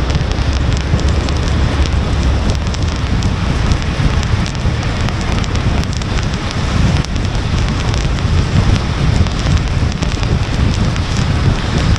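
Car driving in rain: steady road and wind noise with a heavy low rumble, and many small ticks of raindrops hitting the car.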